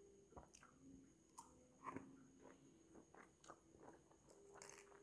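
Faint biting and chewing of a slice of unripe green mango, in irregular small crunches and mouth clicks.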